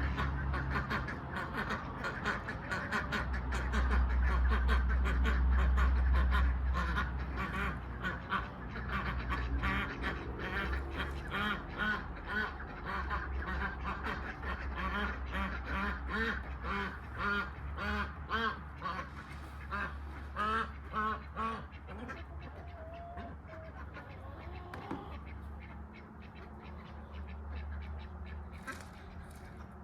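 Ducks quacking, many short calls in quick succession, thinning out after about twenty seconds, over a low rumble that is loudest a few seconds in.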